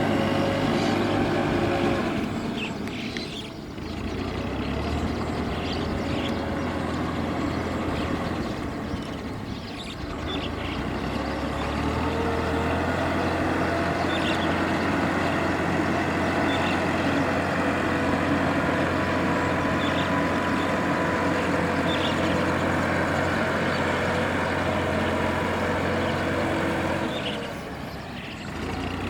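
Kubota tractor's diesel engine running steadily while plowing a rice paddy. It eases off briefly three times, a few seconds in, around ten seconds in and near the end, then pulls again.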